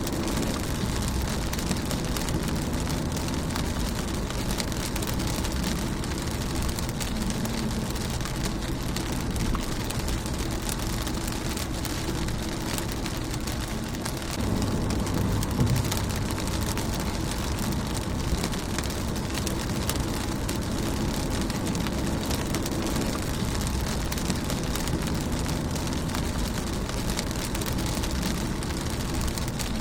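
Rain falling on a car's windshield: a steady patter of drops over a low rumble, swelling a little louder about halfway through.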